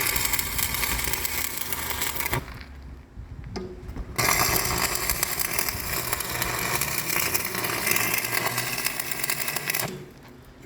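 Loud mechanical noise that runs for a couple of seconds, stops for about two seconds, then runs again for over five seconds before cutting off near the end.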